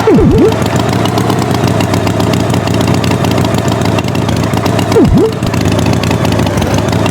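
Cartoon tractor engine running steadily, with quick swooping sound effects that dip low in pitch and come back up, two near the start and one about five seconds in.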